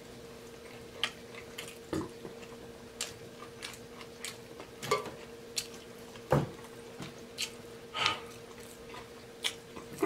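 A man chewing a mouthful of burger: scattered wet mouth clicks and smacks about once a second, with a few heavier ones about two, six and eight seconds in, over a faint steady hum.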